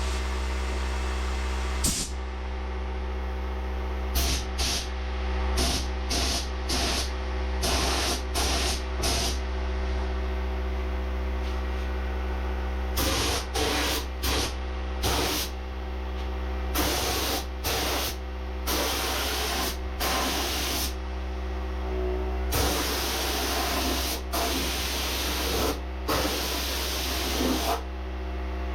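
Compressed-air spray gun laying on primer in repeated short bursts as the trigger is pulled and released, the later passes longer, over a steady hum.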